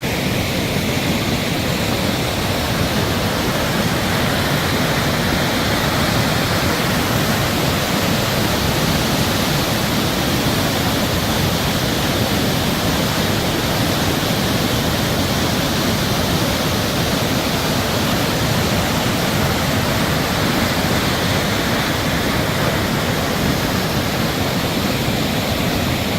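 Flooded creek's high water rushing steadily, an even loud rush with no change.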